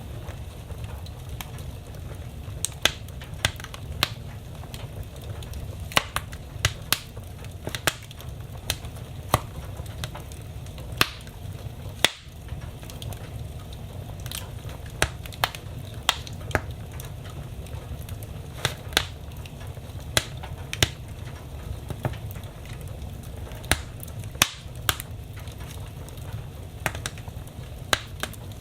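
Wood fire in a fireplace crackling: irregular sharp pops and snaps, about one or two a second, over a steady low rumble.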